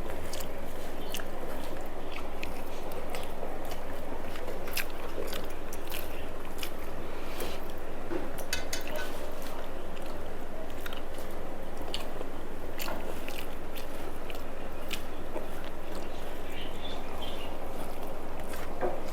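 A person eating: close-up chewing with scattered short crunches and clicks, over a steady low background hum.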